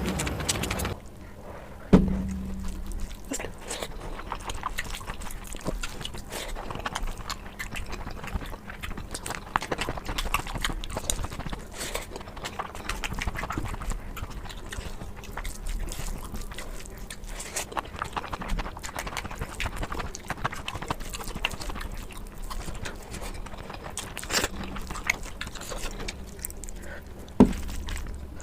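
Close-miked eating sounds: steady chewing and wet mouth clicks. Two sharp knocks, about two seconds in and near the end, each carry a short low hum.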